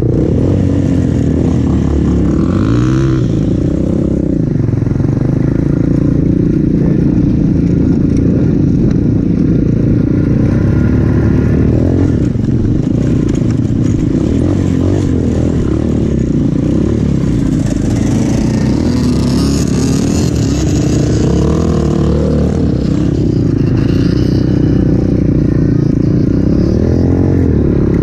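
200cc Avantis pit bike's single-cylinder four-stroke engine running under way, revving up and down, with sharp rises in pitch around three seconds in and again near the end.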